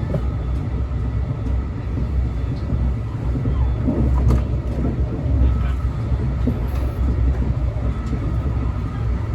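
Brightline passenger train running, heard from inside the coach: a steady low rumble with faint steady tones and a few light clicks.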